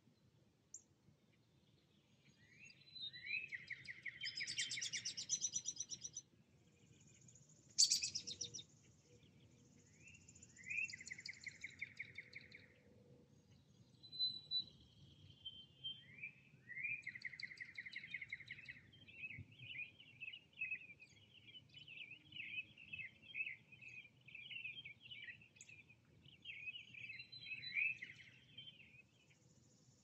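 Songbirds singing in woodland. One bird repeats a song that starts with a rising note and runs into a trill lasting about two seconds, heard three times. There are also high thin buzzy phrases, and a run of quick chirps through the second half, over a faint low rumble.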